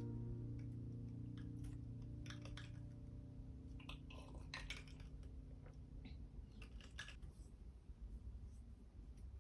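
The last strummed acoustic guitar chord of background music rings out and fades away. Faint scattered clicks and taps follow.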